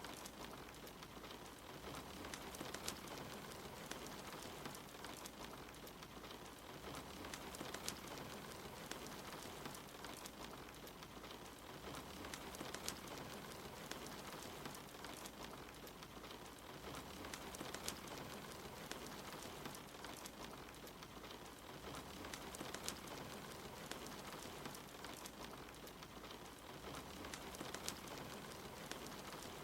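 Soft, steady rain with scattered crackles and pops from a wood fire.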